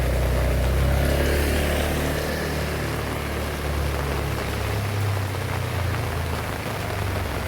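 Heavy rain falling steadily, with a strong low rumble underneath that eases off about seven seconds in.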